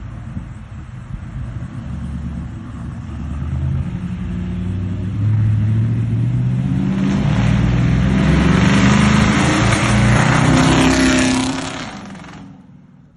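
Car engine running and being revved, growing louder from about four seconds in with rising pitch and loud exhaust noise, then dying away about a second before the end.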